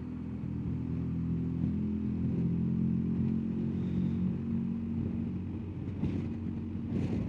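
BMW R1250GS Adventure's boxer-twin engine running steadily under way, its note edging up a little a couple of seconds in and then holding.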